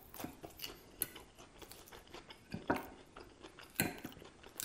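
A person chewing a mouthful of iceberg lettuce salad close to the microphone, with scattered crisp crunches, a few of them louder.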